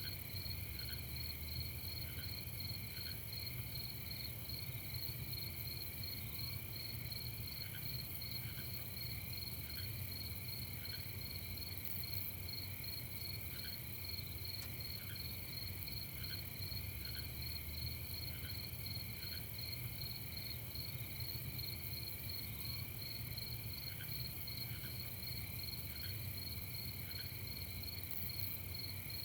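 Night chorus of crickets trilling steadily in fast pulses, with short, lower chirps every second or two. A steady low rumble runs underneath.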